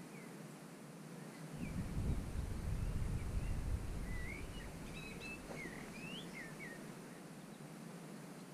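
Birds giving short, rising and falling chirps and whistles, busiest around the middle, over a low rumble that swells in about a second and a half in and fades out by about five seconds.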